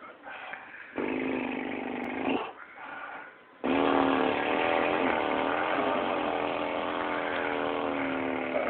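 A person making a 'motorboat' sound, a buzzing lip trill (brrr) at a steady pitch: a short burst about a second in, then a longer one of about five seconds.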